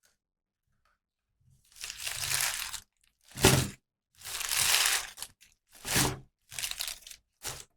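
Packaging being crinkled and crushed by hand in six short rustling bursts, starting about a second and a half in.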